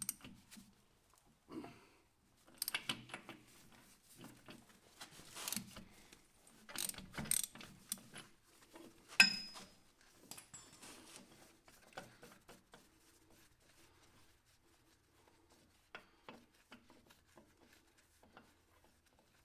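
Metal hand tools and hydraulic coupler fittings being worked on: irregular clicking, rattling and scraping of metal, with one sharp metallic clack about nine seconds in, thinning to scattered light clicks in the second half.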